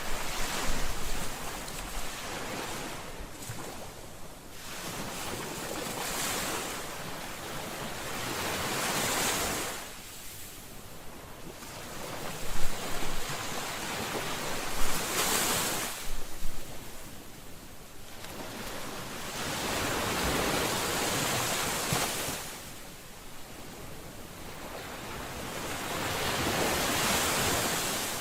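Ocean waves breaking and washing up a shore, the surf swelling and falling away every few seconds, with the sharpest crashes about halfway through.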